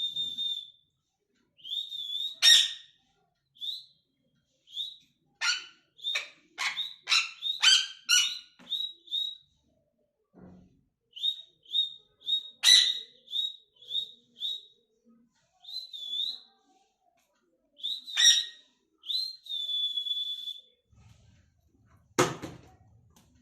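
A pet parrot whistling and chirping: runs of short, high whistled notes, some held a little longer, mixed with sharp clicky chirps, coming in clusters with short pauses. A single sharp knock near the end.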